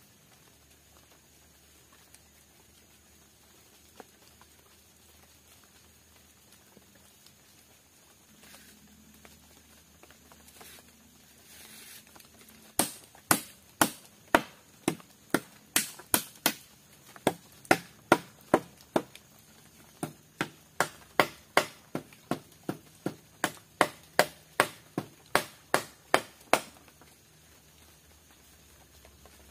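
Repeated sharp blows of a hand tool striking wood, about two a second for some fourteen seconds, starting about halfway through and stopping a few seconds before the end.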